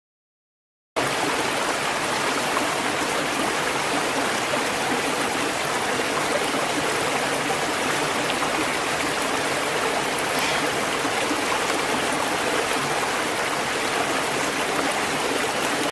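Running water, a steady, even rush of flowing water that starts abruptly about a second in.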